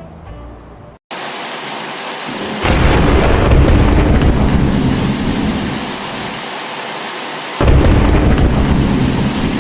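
Thunderstorm: steady heavy rain starts after the background music cuts off about a second in. A long roll of thunder comes in about two seconds later and slowly eases, and a second loud clap of thunder follows near the end.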